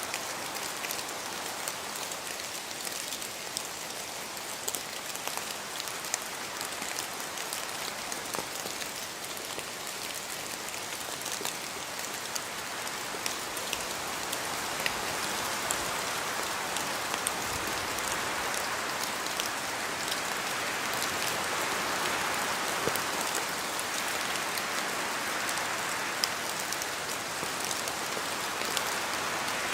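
Steady rain in a forest, with many scattered drops ticking as they fall from the trees, swelling slightly louder about halfway through.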